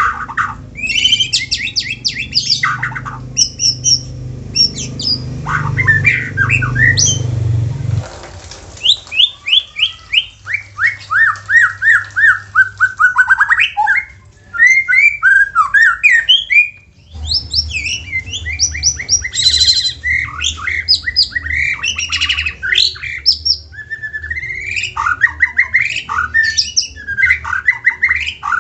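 White-rumped shama singing a loud, fast, varied song of rapid trills, sweeping whistles and harsh notes with hardly a break. A steady low hum runs underneath, dropping out for several seconds in the middle.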